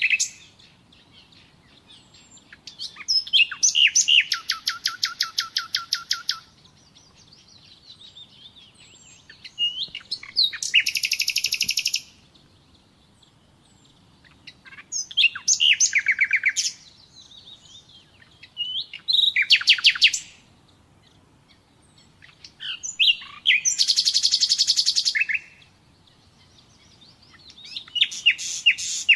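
Common nightingale singing: a series of phrases of rapid, evenly repeated high notes, each lasting a second or three, separated by short pauses.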